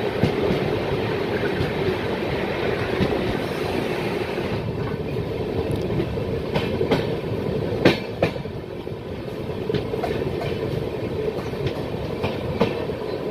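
Moving express train heard from an open coach doorway: a steady rumble of wheels on rail, with sharp clicks as the wheels cross rail joints, several of them from about six seconds in. Wind rush on the microphone eases about four seconds in.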